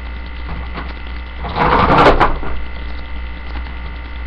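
Hot Wheels toy monster trucks and plastic track clattering once, briefly, about a second and a half in, over a steady electrical mains hum.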